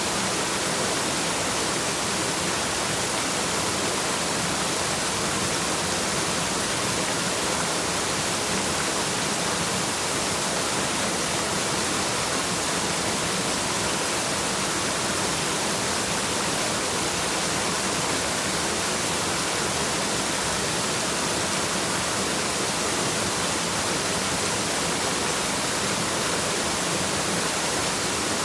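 Waterfall's steady rush of falling water, an even, unbroken hiss.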